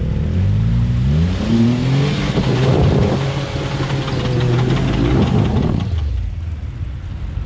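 Jeep Wrangler Rubicon's engine revving hard under load as it climbs a steep ramp out of a muddy trench, its tyres churning dirt. The revs rise over the first two seconds, hold high, then drop away about six seconds in.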